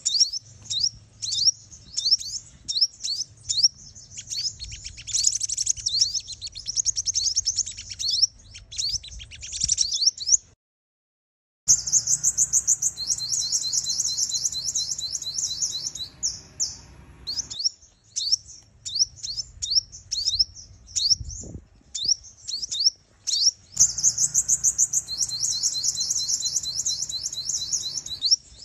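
Female sunbird calling: rapid high-pitched chirps and trills with quick downward-sweeping notes, cut by a second of silence about ten seconds in. It is a call meant to excite and draw in male sunbirds.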